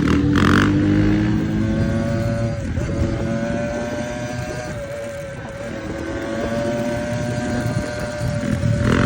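Dirt bike's four-stroke engine running at a held, nearly steady high pitch, dipping briefly a couple of times. It fades a little midway and builds again.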